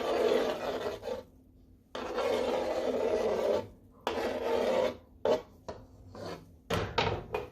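A spoon scraping and rubbing against the pot as the gumbo is stirred: three long scraping strokes, then several shorter ones near the end.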